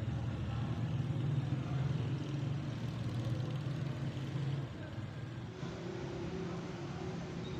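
Steady low engine-like hum that shifts in pitch and drops a little in level about five seconds in.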